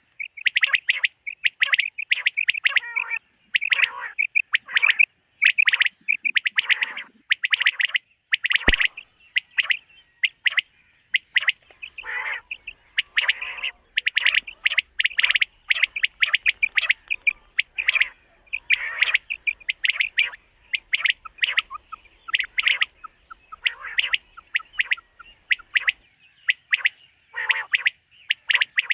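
Common quail calling over and over, with short repeated calls in quick clusters and brief pauses between them.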